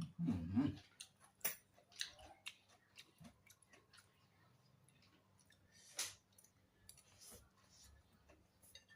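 Close-up eating sounds: chewing with wet mouth clicks and smacks, scattered irregularly, with a louder smack about six seconds in. A short low hum comes right at the start.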